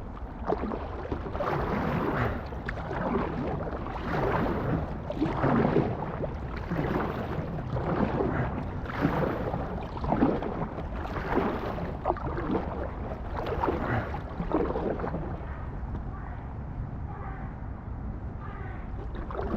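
Kayak paddle strokes in water, a short splash about every second in a steady rhythm as an inflatable kayak is paddled along, over a low steady rumble.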